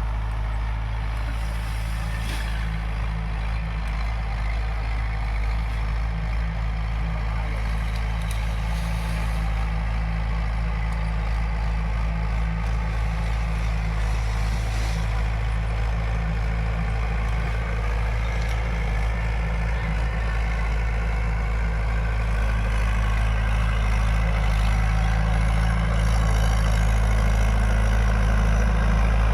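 Tractor engine running steadily at a low pitch, getting gradually louder toward the end.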